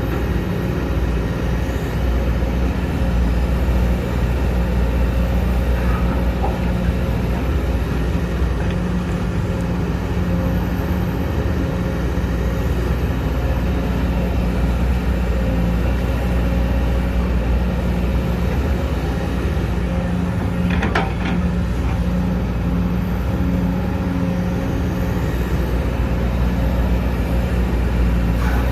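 Sumitomo SH210 excavator's diesel engine running steadily, with a brief sharp metallic clank about two-thirds of the way through.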